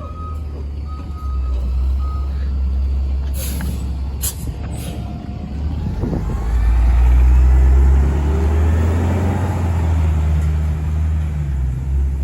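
Kenworth rear-loader garbage truck's diesel engine running, with three reversing beeps in the first two seconds and a few short hisses of air around four seconds in. The engine then revs up, loudest a little past the middle.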